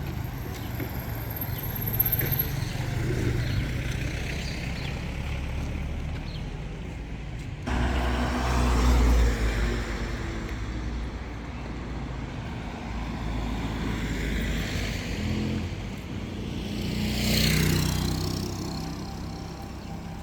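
Steady low rumble of a motor vehicle, with a louder swell as a vehicle passes close by near the end.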